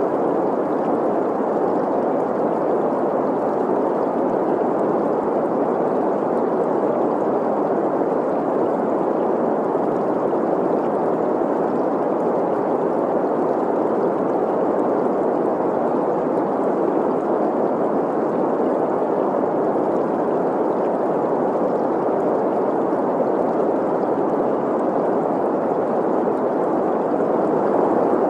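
Steady green noise, an even hiss centred in the middle range, blended with the sound of a flowing stream.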